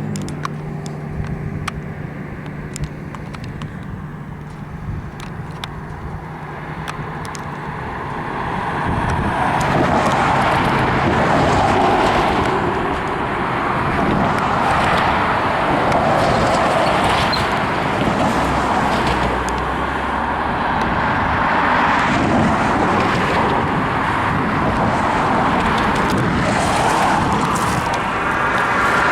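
Level crossing electronic bells striking in a steady, regular beat, over the low steady hum of an idling engine. From about eight seconds in, a loud rushing noise builds and holds beneath the bells.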